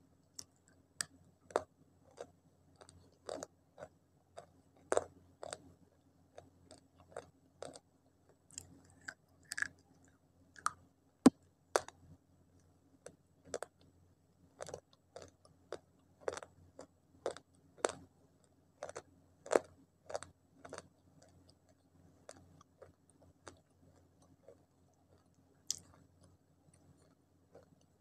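Chewing and crunching slate pencils coated in wet multani mitti (fuller's earth clay) paste: irregular sharp crunches about one to two a second, with short quiet gaps. The loudest crack comes a little before halfway.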